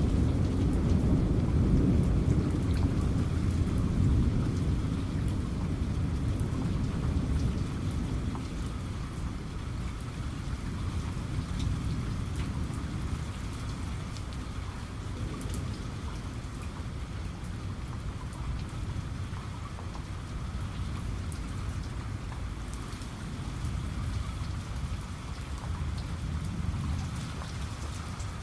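Heavy rain falling steadily, with fine drop patter, under a low thunder rumble that is loudest at the start and fades away over the first third, swelling slightly again near the end.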